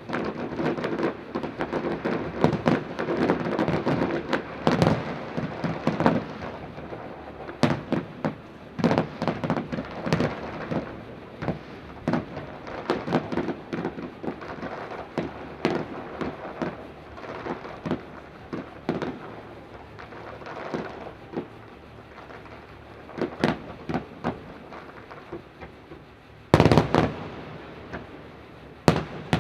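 Aerial fireworks exploding in rapid, irregular succession: many cracks and booms overlapping, with a single loudest bang near the end.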